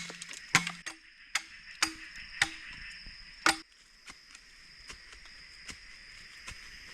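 Chopping with a blade on wood: sharp strikes about every half second to second, some with a short low ring, stopping about three and a half seconds in, leaving a few faint ticks over a steady high drone.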